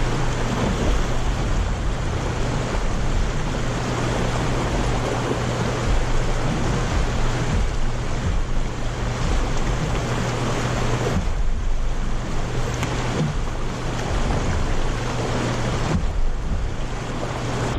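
Rushing whitewater of river rapids, a loud, continuous churning roar, with wind buffeting the microphone and a steady low hum underneath.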